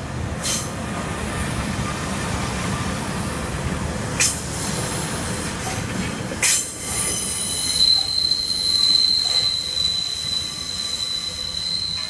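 Northern Class 144 Pacer diesel multiple unit passing: a steady rumble of engine and wheels, with sharp clacks as the wheels cross rail joints. From about eight seconds in, a high, steady squeal comes from the train.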